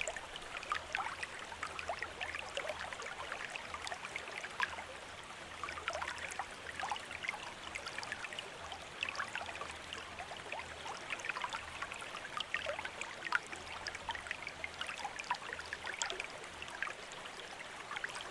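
Bamboo water fountain running, water trickling and splashing steadily with many small, irregular drips and splashes.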